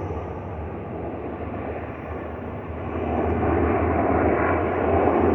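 Sikorsky UH-60 Black Hawk military helicopters passing low overhead: a steady drone of rotors and twin turbine engines that dips slightly, then grows louder from about halfway through as they come closer.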